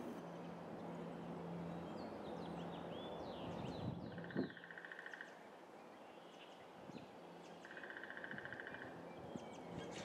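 Faint outdoor nature ambience: birds chirping, with two buzzy trills of about a second each, one about halfway through and one later on. A low steady hum runs under the first few seconds.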